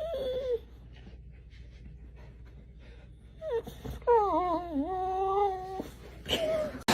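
Dog whining in pitched, wavering calls: a short falling whine at the start, a longer wavering whine from about four to six seconds in, and a brief one near the end.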